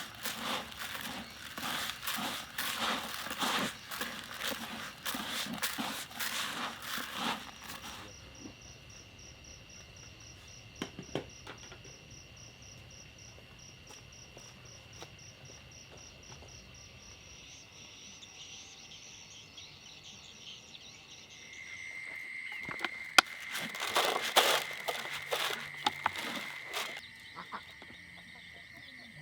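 Steady high insect trilling, finely pulsed, with bouts of dense scratchy rustling noise during the first several seconds and again about three-quarters of the way through.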